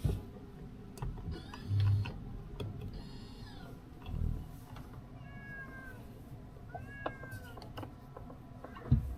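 Tyres of a Smart #3 electric car giving short, pitch-bending squeals under hard cornering, several times, over a low road rumble with a few thumps from the car body and suspension.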